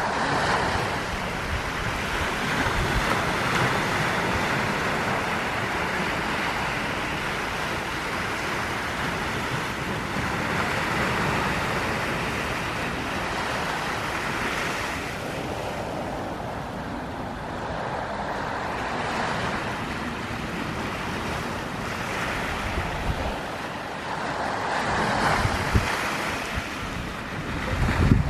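Ocean waves washing onto the beach in slow swells that rise and fall every few seconds, with wind buffeting the microphone and a few low thumps near the end.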